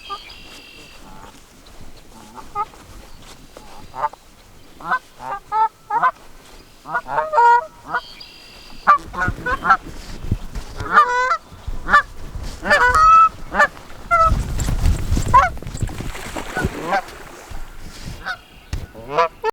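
A couple of geese honking over and over in short, irregular calls, with a low rumble about three-quarters of the way through.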